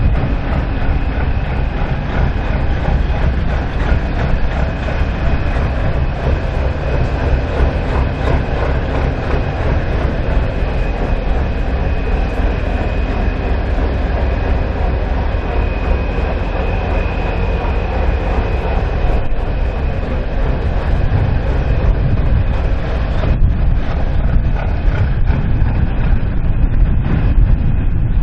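Heavy diesel truck engine running steadily: a low rumble with a thin, steady high whine over it.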